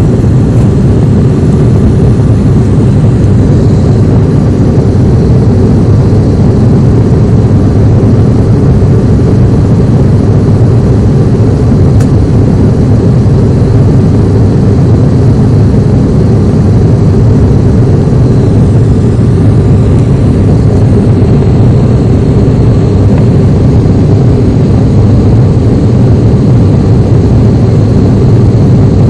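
Steady, loud drone of an aircraft's engine heard from inside the cabin, a low hum that does not change.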